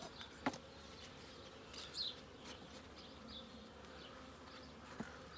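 Honeybees buzzing faintly and steadily around an open hive, with two sharp clicks: one about half a second in and another near the end.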